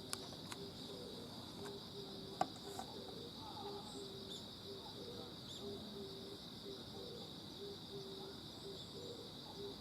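Steady, high-pitched insect chorus, like crickets trilling, with a short low note repeating about once or twice a second. A few sharp clicks stand out, the loudest about two and a half seconds in.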